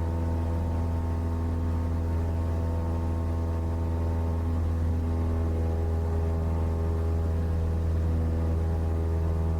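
Cessna 172's single piston engine and propeller running steadily in flight, a constant low drone with an even pitch.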